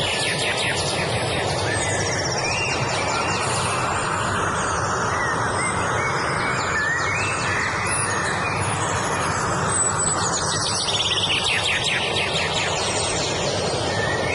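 Several songbirds singing over a steady rushing noise. There are rapid high trills near the start and again about ten seconds in, with short whistled phrases in between.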